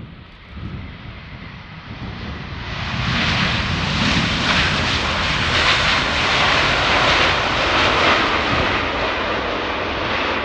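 Large wide-body jet airliner passing close overhead on approach to land, its engines running. The jet noise swells about three seconds in, stays loud, and eases slightly near the end.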